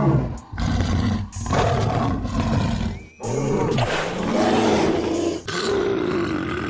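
A string of about five deep animal roars, back to back, each rising and then falling in pitch: a cartoon creature's roar sound effect.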